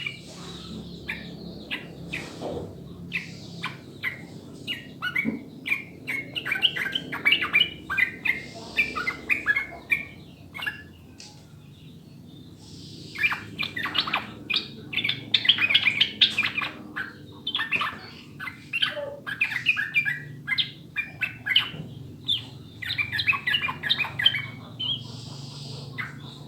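Yellow-vented bulbul (trucukan) singing in phrases of quick, bubbly chattering notes, with short pauses between phrases.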